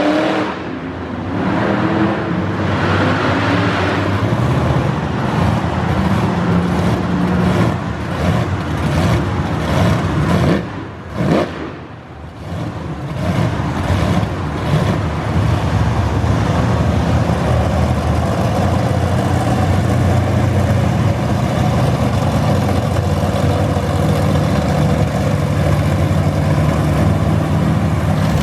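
Monster truck engines revving and running loud, with a brief drop in level about eleven seconds in before a steady engine note returns.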